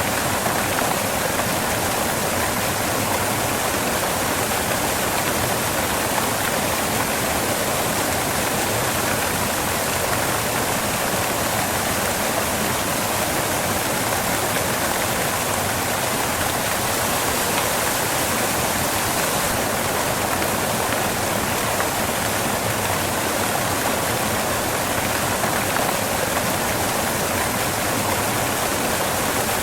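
Waterfall: water pouring and splashing onto rocks as a steady, unbroken rush.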